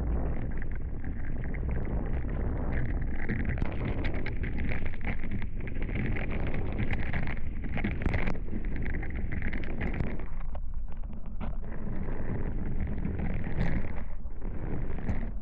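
Wind buffeting the microphone of a camera on a Hobie 16 catamaran under sail: a steady rushing noise, heaviest in the low end, with water noise from the boat moving through the sea.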